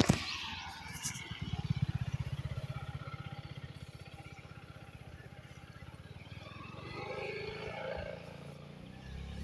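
A sharp click, then a small engine with a fast low pulsing that is loudest about two seconds in and fades away.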